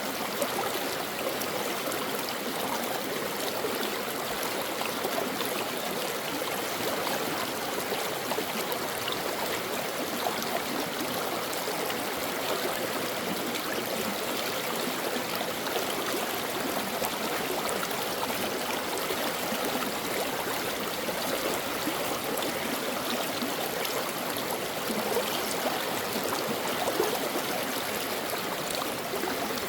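Stream water flowing steadily over rocks, with a constant rushing sound and small splashes and gurgles throughout.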